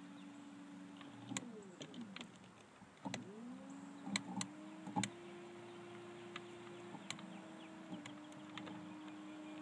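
Electric trolling motor running with a steady whine. It winds down about a second in and spins back up around three seconds, then steps up in pitch near five seconds and down near seven and eight, with a few sharp clicks along the way.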